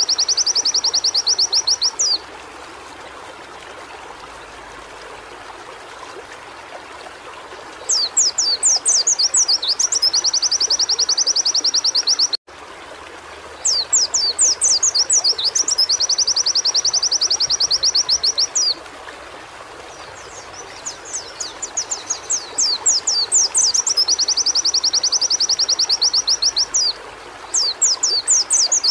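Pleci (white-eye) singing repeated phrases: each opens with a few quick sweeping notes, then runs into a fast, high trill lasting a few seconds, with pauses between phrases. There is a steady hiss underneath, and the sound cuts out briefly about twelve seconds in.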